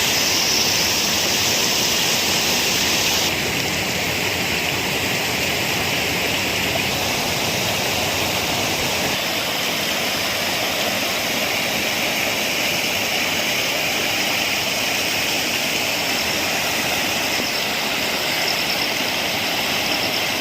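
Rushing water, a steady hiss of flowing water that drops a little in level about three seconds in.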